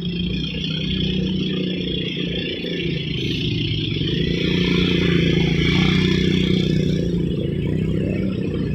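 Heavy truck's diesel engine running hard under load, a steady drone with some rattle, dipping slightly in pitch about three seconds in and then climbing back as it grows louder.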